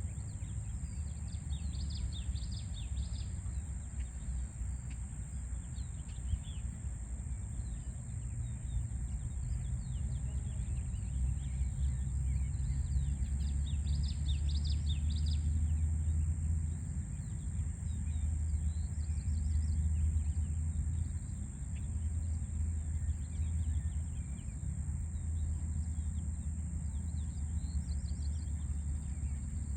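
Small birds chirping in quick repeated bursts over a steady low rumble of distant city traffic, which swells for several seconds in the middle. A constant high hiss runs underneath.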